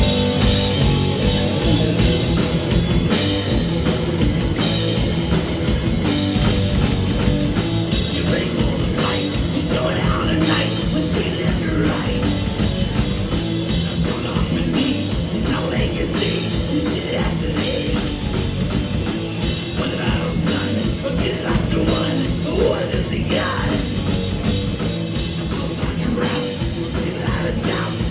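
A rock band playing loud, hard-driving rock with electric guitar and drum kit.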